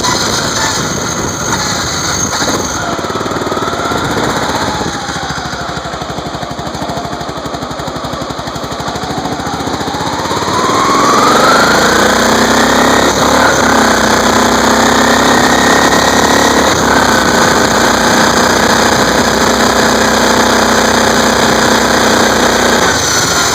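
A lawn tractor's 13.5 hp Vanguard engine running. Its speed sags over the first several seconds, then rises about ten seconds in and holds high and steady. This fits the uneven running the owner describes as choppy, then speeding up.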